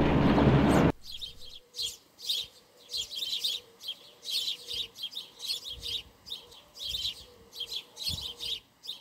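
Small birds chirping in short, quick calls, a few a second. Before them, a loud steady rushing noise cuts off suddenly about a second in.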